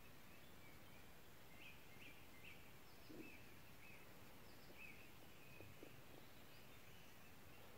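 Near silence: faint, short bird chirps repeat through the background, with a couple of soft knocks about three and six seconds in.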